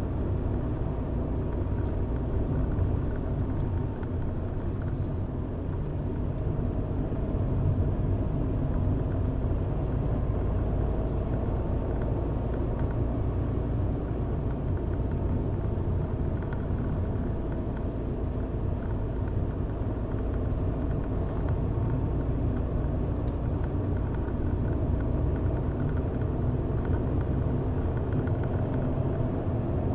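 A car driving at a steady pace: a continuous low rumble of engine and tyres on the road, even throughout.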